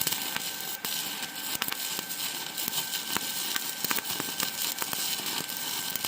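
Stick-welding arc crackling steadily with dense sharp pops, with a faint steady high tone underneath: a 2.5 mm basic electrode running a flat bead at 60 amps on 2 mm steel box profile, powered by an ESAB 180i Pro inverter welder.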